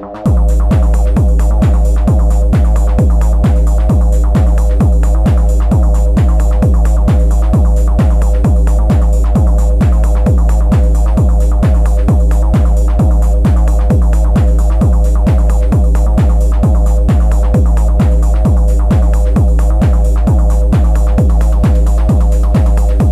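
Improvised techno from an Elektron Analog Rytm drum machine: a steady four-on-the-floor kick drum, about two beats a second, over a sustained droning chord. The kick comes in right at the start, after a fading bass swell.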